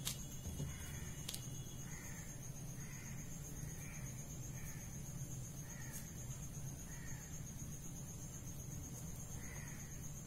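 A bird calling faintly, a dozen or so short calls at irregular spacing, over a steady low hum.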